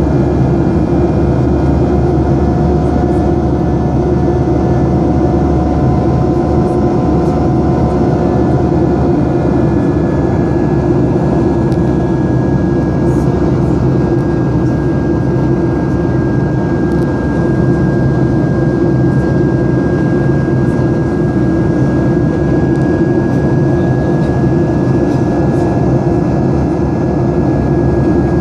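Boeing 737-800 jet engines (CFM56-7B turbofans) running steadily at high power: a loud, even roar with a steady high whine.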